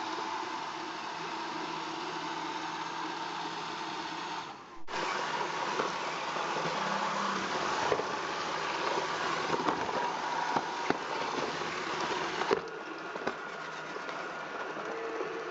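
iRobot Roomba 400-series robot vacuum running: a steady motor whine and brush noise, broken by scattered clicks and knocks through the middle stretch. The sound changes abruptly about five seconds in and again near the end.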